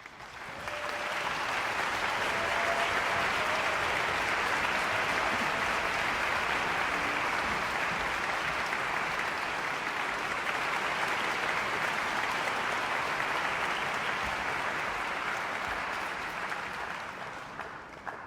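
Audience applauding steadily, building up in the first second and tapering off near the end.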